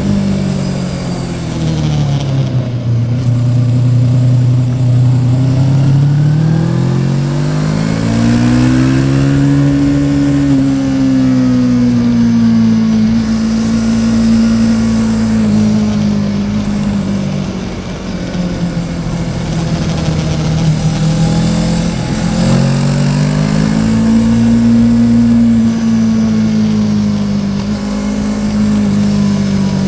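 Yamaha Tracer 700's 689 cc parallel-twin engine under way. The revs drop for the first few seconds, climb about eight seconds in and hold, ease off past the middle, then rise again and settle near the end, over a steady rushing noise.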